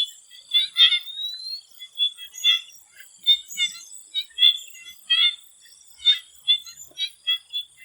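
Swamp frogs calling in short, irregular high notes, about two a second, over a steady high insect drone. A rising whistle comes about a second in.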